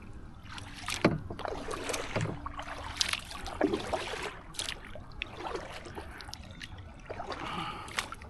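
Paddle strokes in the water from a solo canoe: irregular splashes and drips, with a few sharp knocks.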